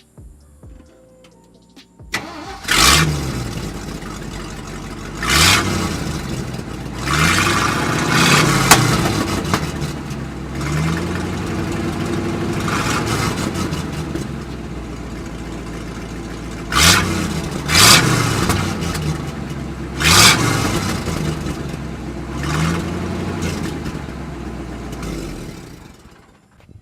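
1966 Ford F500 dump truck's V8 starting about two seconds in, heard close at the exhaust, then blipped up in repeated revs with idling between, before shutting off near the end.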